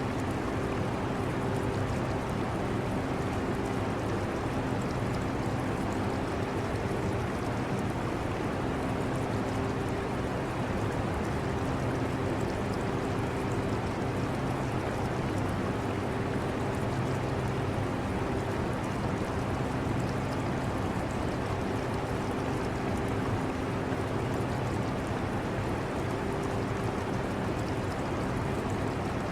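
Steady hum of an air conditioner with a few constant low tones, mixed with the running trickle of an aquarium's water.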